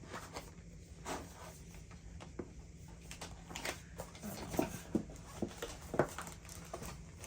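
A cardboard box being opened by hand: scattered short scrapes, taps and rustles of the lid and packaging, with a few sharper knocks a little past the middle.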